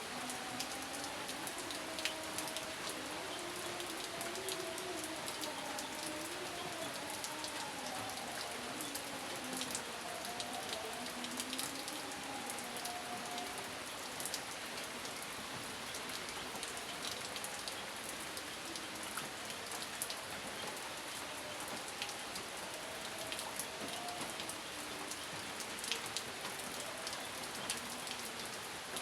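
Steady rain falling, with sharp ticks of individual drops hitting a surface. A low wavering tone comes and goes under the rain.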